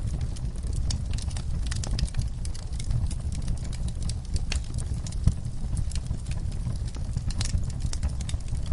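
Fire in a fireplace crackling: irregular sharp pops and snaps over a steady low rumble, with one louder pop a little past halfway.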